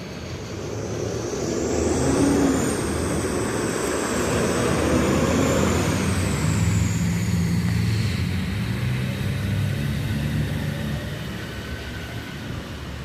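A large vehicle passes close by. Its engine-like hum and a high, gliding whine build about two seconds in, stay loud for several seconds, then fade away.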